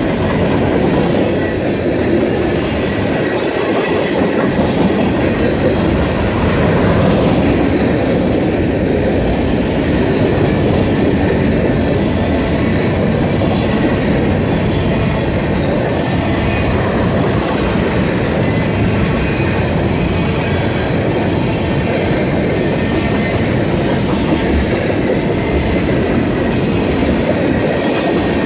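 Freight train of tank cars and covered hoppers rolling past close by: a steady, even noise of steel wheels running on the rails.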